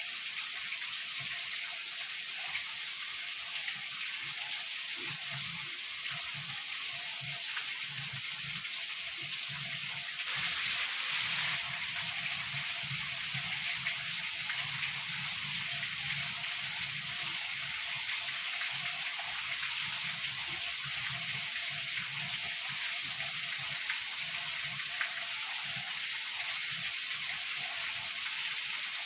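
Steady heavy rainfall hissing without a break, with a brief louder surge lasting about a second, about ten seconds in.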